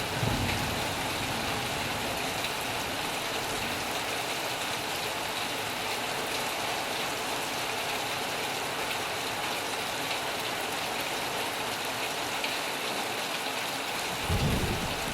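Heavy rain falling steadily, an even rushing hiss of many drops, with a brief low rumble right at the start and again near the end.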